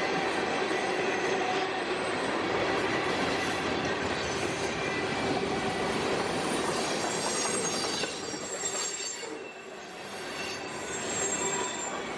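Freight train cars rolling past on steel rails, a steady rumble and rush of wheels on track, with high wheel squeal joining in about halfway through and briefly easing near the end.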